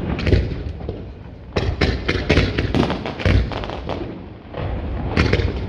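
Fireworks going off: a run of sharp bangs and crackles in clusters, with deep booms between and a low rumble underneath.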